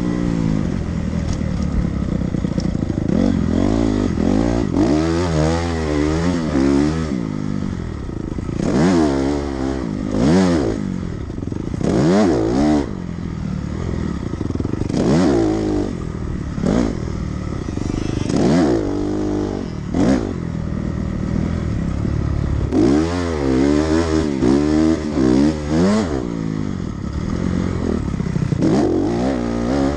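Dirt bike engine on a motocross track, revving up and falling back over and over as the throttle is opened and closed, with the pitch climbing and dropping every couple of seconds. Some clattering runs under it.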